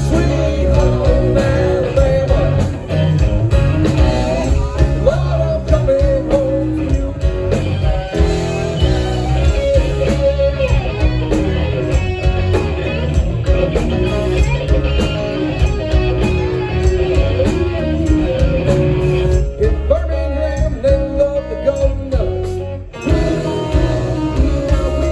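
Live blues-rock band playing, with electric guitar and bass, and a singer's voice over it.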